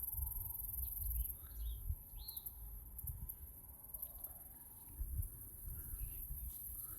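Outdoor insect chorus, a steady high-pitched hum, with a few short bird chirps scattered through it and a low rumble underneath.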